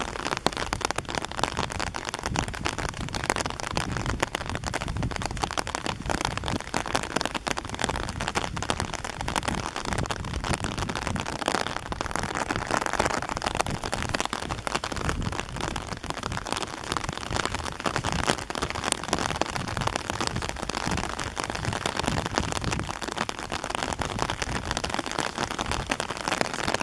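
Steady rain falling, with many sharp drop hits close to the microphone.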